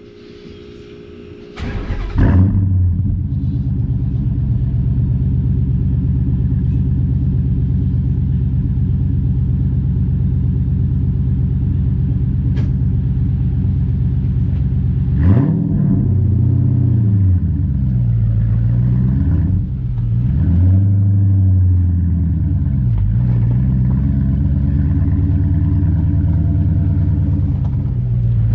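2009 Dodge Challenger SRT-8's 6.1-litre Hemi V8 exhaust: the engine catches about two seconds in with a loud flare, then idles steadily. From about halfway it revs, the engine speed climbing and falling several times.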